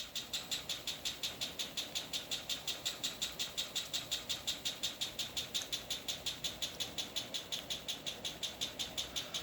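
Canarm Twister ceiling fan running on high, with a rhythmic squeak about six times a second. The squeak is the motor rubbing on its housing because the fan is sitting on the floor, not bearing noise.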